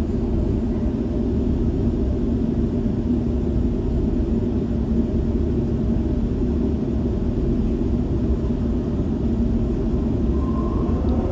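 Steady low rumble of a suburban electric train in motion, heard from inside the carriage: wheels on the track and running gear, with a constant hum underneath.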